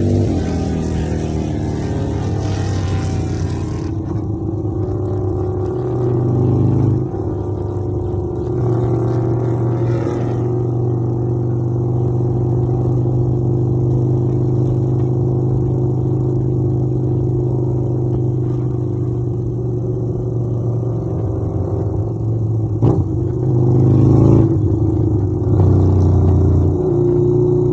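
Harley-Davidson V-twin motorcycle engine running steadily under way, its pitch changing briefly about six seconds in and again near the end as the revs change.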